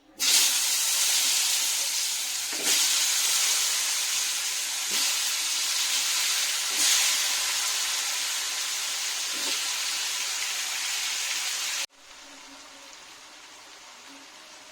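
Food sizzling loudly in hot oil in a pan, with a few sharper crackles. It cuts off abruptly near the end, leaving a much softer steady hiss.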